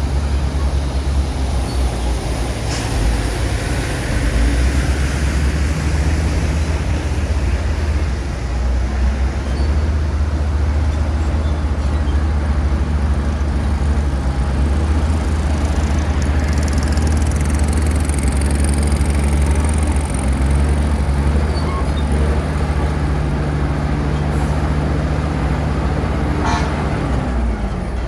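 Bulldozer's diesel engine running steadily under load, with a couple of sharp metallic clanks; near the end the engine note drops.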